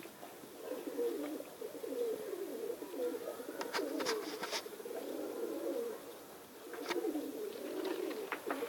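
Domestic pigeons cooing, a continuous low warbling that pauses briefly about six seconds in, with a few short high clicks around the middle and later.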